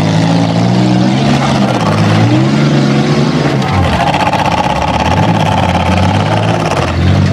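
Race car engines running and revving, their pitch rising and falling as the cars drive around the track. A higher steady whine joins about four seconds in and stops shortly before the end.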